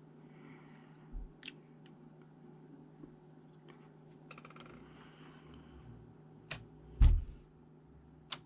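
Hard plastic and metal laptop parts being handled: scattered sharp clicks, a brief rattle of small ticks, and one louder low thump about seven seconds in, over a steady low hum.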